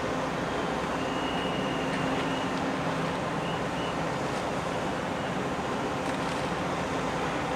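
Steady rumbling wash with a low hum, typical of a large ferry's engines and the water it churns. A faint thin high whistle sounds briefly about a second in.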